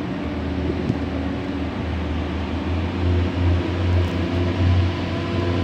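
Steady low mechanical hum of trains at a station, with a low rumble that swells and dips every second or so.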